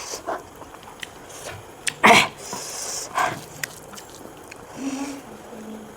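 Close-up mouth noises of someone eating snails in curry: short slurps, sucks and smacks, the loudest about two seconds in, with a few small clicks and a brief low hum near the end.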